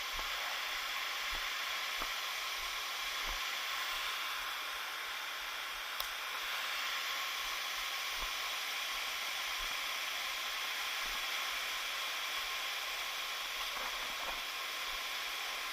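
Waterfall rushing steadily, an even hiss of falling water. A single sharp click sounds about six seconds in.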